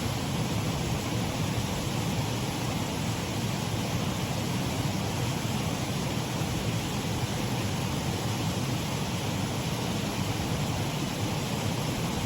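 Shallow waterfall on a stream, water running steadily over it.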